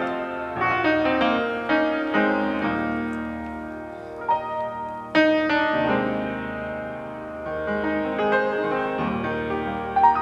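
Piano playing, chords and notes struck one after another and left to ring out, with a louder chord struck about five seconds in.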